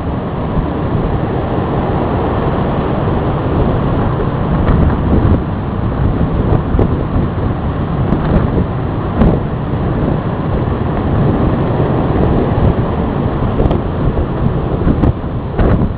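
Strong storm wind buffeting the microphone, a loud continuous rumbling roar that gusts up and down, with surf mixed in.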